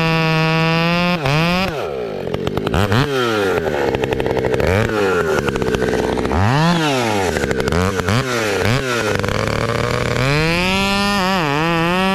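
Large two-stroke chainsaw held at high revs, then let down toward idle about a second in. The throttle is blipped several times, the pitch rising and falling with each blip, before the saw is held wide open again near the end.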